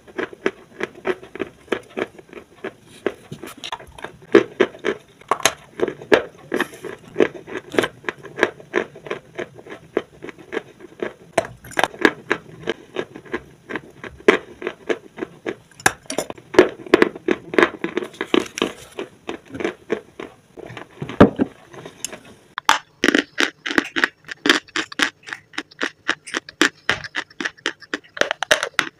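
Close-up bites and chewing of dry, white, chalk-like blocks: a steady run of crisp crunches, several a second. About three-quarters of the way through, the crunching turns brighter and sharper.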